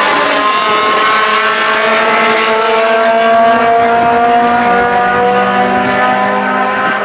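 Two Honda compact cars' engines at full throttle on a drag-strip pass: a steady, loud engine note whose pitch winds slowly higher as they accelerate.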